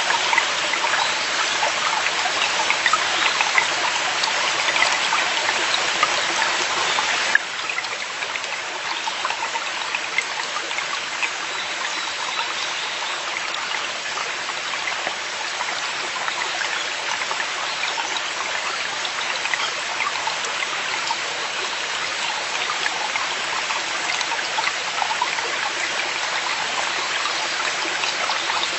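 Mountain stream in a forest valley flowing steadily over rocks. About seven seconds in, the sound shifts abruptly and becomes a little quieter.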